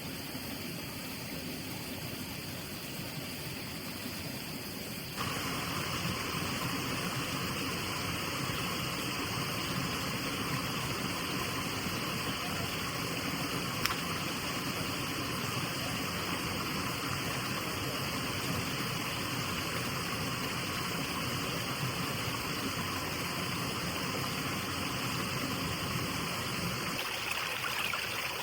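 Steady rushing of flowing water, as from a stream. It gets louder and brighter about five seconds in.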